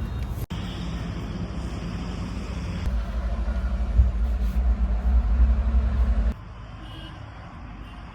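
Heavy diesel engine of a farm machine running, a loud low throb, in edited snippets that change abruptly about half a second and three seconds in; the engine drops away to a quieter background about six seconds in.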